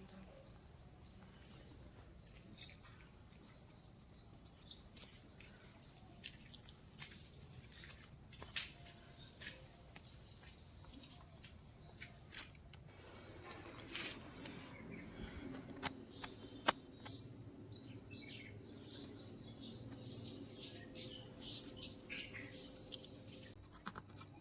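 Outdoor ambience of insects and birds: rapid trains of high, pulsed chirps repeat throughout, joined by bird chirps from about halfway. A low steady hum also starts about halfway, and there are a few sharp clicks.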